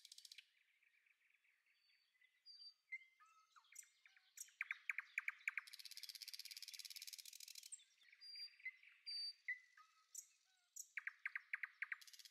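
Faint birdsong: scattered short chirps and whistles, with a couple of rapid trills and a brief high buzz.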